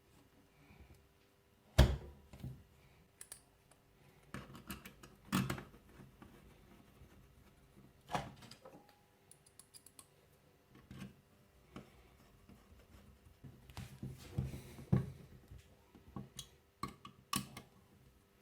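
Irregular clicks and knocks of metal parts and hand tools as the main casing of a small model turbojet is fitted and its bolts are turned in; the loudest knock comes about two seconds in.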